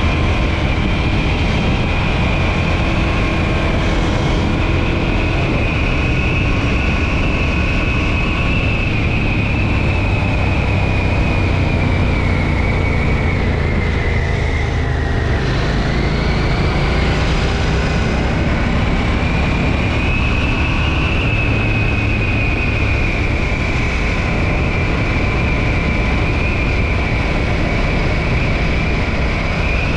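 KTM 790 Duke's 799 cc parallel-twin engine, stock exhaust, under way at a steady cruise, heard over road and wind noise. Around the middle the revs dip briefly, then climb back to a steady pace.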